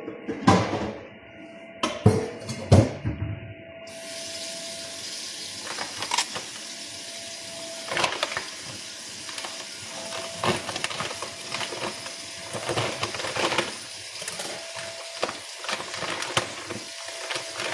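Kitchen work sounds: a few knocks and clatters, then from about four seconds in a steady hiss with scattered clicks and taps.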